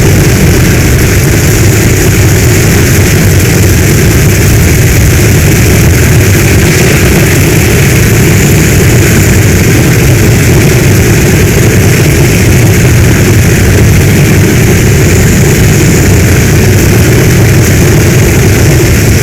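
Heavy storm rain falling as one steady, loud wash of noise with a deep rumble beneath it, unchanging throughout.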